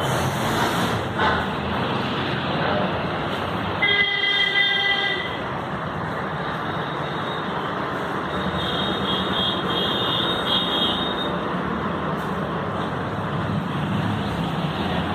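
Road traffic noise with a vehicle horn honking once, about four seconds in, for about a second and a half. Fainter high-pitched horn or beep tones sound around nine to eleven seconds.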